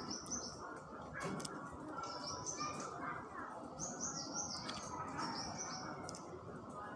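A small bird chirping repeatedly: groups of three or four short, high notes in quick succession, coming every second or two, over a steady low background noise.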